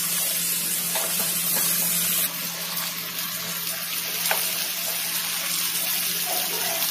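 Potato cubes and spices sizzling in hot mustard oil in a steel kadai, with a metal spatula stirring and scraping; the sizzle eases a little about two seconds in.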